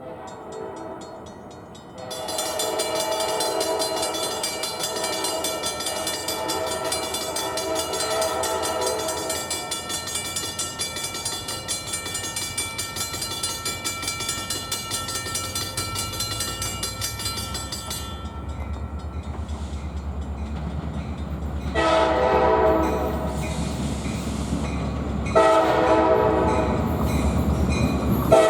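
Diesel locomotive air horn, on an NYSW SD40-2, sounding one long blast of about sixteen seconds. The low rumble of the approaching locomotive then builds, and two shorter horn blasts follow near the end.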